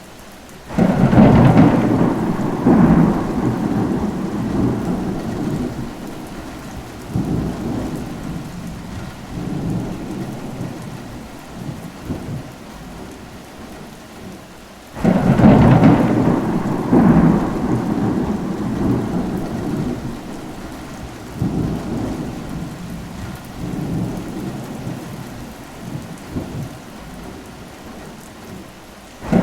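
Steady rain with two long peals of thunder. Each breaks in suddenly, about a second in and again halfway through, then rumbles on in rolling swells and fades over many seconds.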